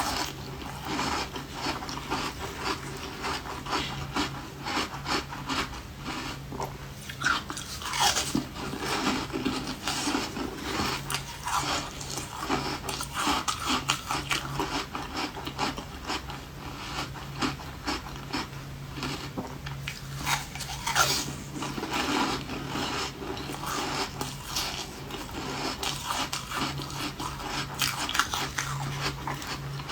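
Refrozen ice being bitten and chewed close to the mouth: a continuous, irregular run of crunches and crackles.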